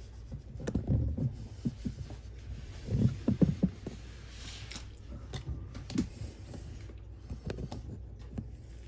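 Irregular knocks and clunks from hands-on work, loudest about a second in and again around three seconds in, over a steady low hum.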